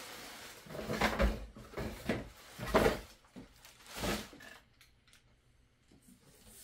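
A series of knocks, scrapes and rustles as 3D-printer parts and packing material are handled during unboxing, about five distinct bumps.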